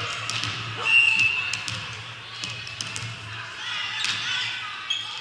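Sounds of an indoor gym game: sharp shoe squeaks and ball thumps on the court over a background murmur of voices, with a short high squeak about a second in.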